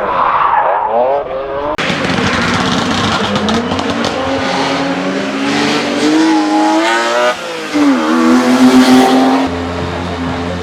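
Race car engines accelerating hard, revving up with rising pitch and dropping back at each gear change. The sound switches abruptly from one car to another a couple of times.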